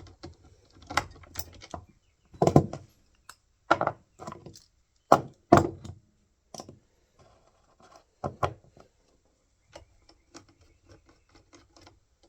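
Hand tools knocking and clicking against a chainsaw as a bolt on its cover is worked loose: a handful of sharp, ringing knocks at uneven intervals, with lighter clicks between them and faint small clicks near the end.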